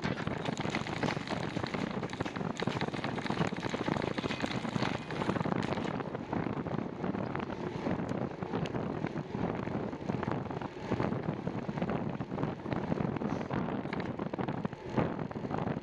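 Wind buffeting the microphone of a camera on a moving bicycle, mixed with the rumble and crackle of the tyres on the trail.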